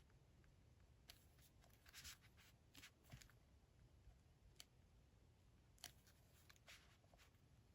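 Faint paper and stationery handling: scattered small clicks and a few short papery rustles over quiet room tone.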